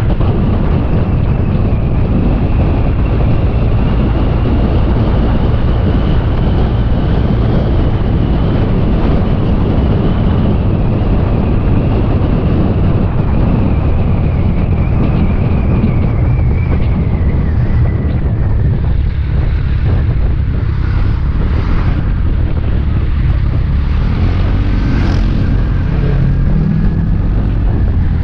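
Motor scooter riding at road speed, its engine running under heavy wind rush on the microphone. A faint high whine drifts down in pitch a little past halfway, as the ride eases off.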